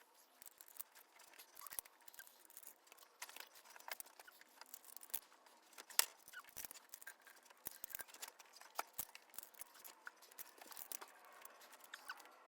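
Small, irregular clicks and light scrapes of hand work with tools or parts, with one sharper click about six seconds in.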